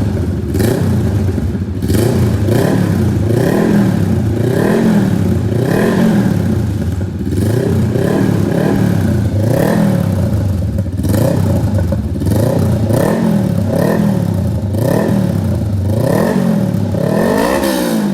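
Honda Rebel 500 parallel-twin engine revved repeatedly through a custom aftermarket exhaust: quick throttle blips about one every second or so, each rising and falling in pitch over a deep rumble.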